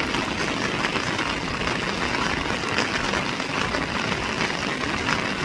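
Steady, dense water noise, like heavy rain or a swollen stream, holding even with no pauses.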